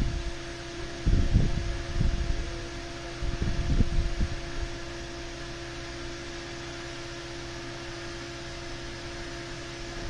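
Steady electrical hum with a faint hiss. Low rumbles come twice in the first half.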